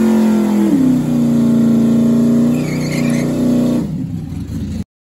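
Chrysler Imperial drag car's 318 small-block Mopar V8 running at a fast idle, its pitch settling slightly lower about a second in, then fading and cutting off near the end.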